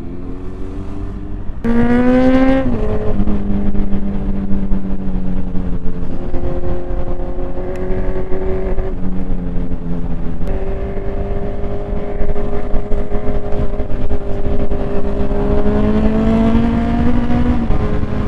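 Motorcycle engine under way at road speed, revving hard about two seconds in, then running on with a few drops in pitch as it changes gear, and climbing again near the end, with wind noise buffeting the microphone.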